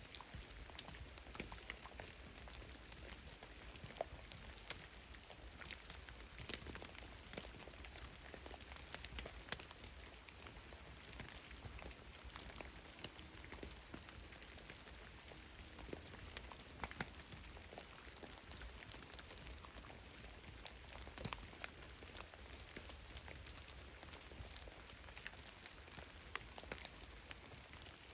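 Meltwater drops falling from snow-laden trees in a forest thaw, pattering irregularly in many small, sharp ticks over a faint hiss.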